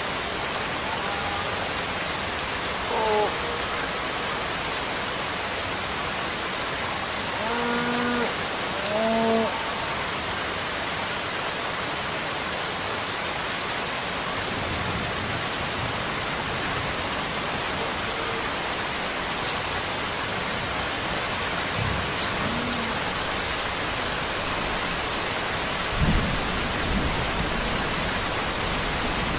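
Steady rainfall, an even hiss with faint scattered drop ticks. A few short pitched calls stand out about 3 seconds in and twice around 8 to 9 seconds in, and low rumbles come near the end.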